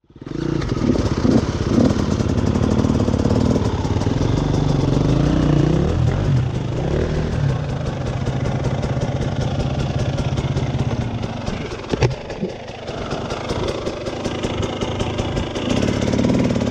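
Enduro dirt-bike engine running at low revs, its pitch rising with throttle blips a few times in the first six seconds, with a single sharp knock about twelve seconds in.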